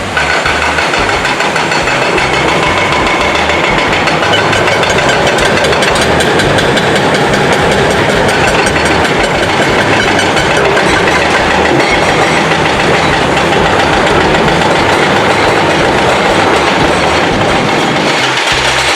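Heavy construction machinery running with a steady, dense clattering rattle, over background music with a stepping bass line.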